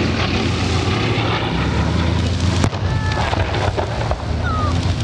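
Bristol Blenheim bomber's twin Bristol Mercury radial engines running steadily, with a single sharp knock about two and a half seconds in.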